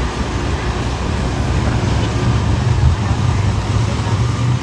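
Steady low rumble of road traffic and an idling vehicle engine.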